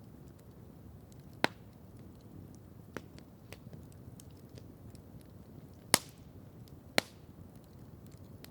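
Wood campfire crackling: a low steady hiss of the burning fire with scattered small snaps and three sharp, loud pops, about a second and a half in, near six seconds and at seven seconds.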